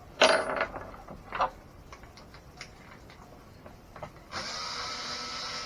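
A few sharp clicks and knocks of hard plastic and metal parts being handled, the loudest just after the start, then a steady whir of a small motor that starts suddenly about four seconds in.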